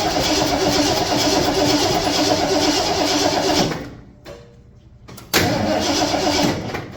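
1974 Ford F-250's starter cranking the engine over without it firing. It stops just under four seconds in, then cranks again for about a second and a half.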